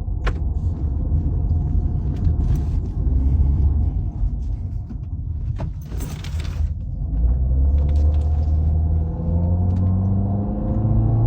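Car driving, a steady low rumble of engine and road, the engine note rising slowly near the end as it speeds up. A couple of sharp clicks and a brief hiss a little past the middle.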